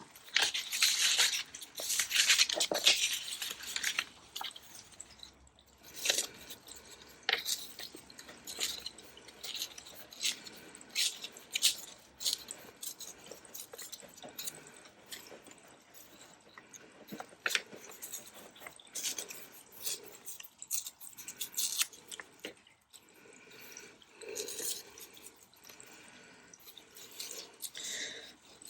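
Paper being handled at close range: irregular crisp rustles, crinkles and light taps, most dense in the first few seconds.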